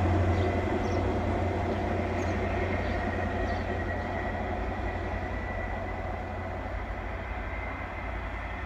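Diesel train running with a low engine rumble and a thin steady high whine, slowly fading as it moves away.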